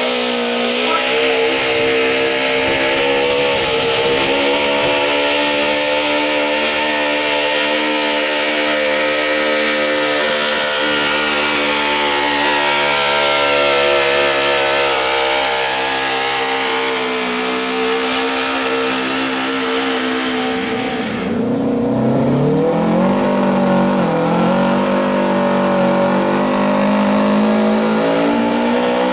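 Modified garden pulling tractor's engine running hard at high, steady revs; after about twenty seconds the revs drop suddenly and then climb back up and hold.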